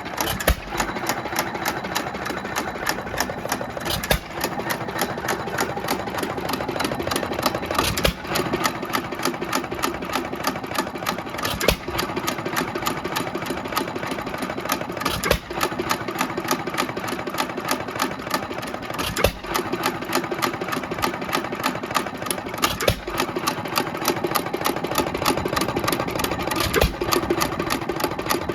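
1920 Economy 2 1/2 HP hit-and-miss engine running unloaded on its first test run after a Webster magneto rebuild. It clatters quickly and evenly with each turn of the flywheels, and a stronger beat comes roughly every four seconds as it fires and then coasts. It is set to run fast.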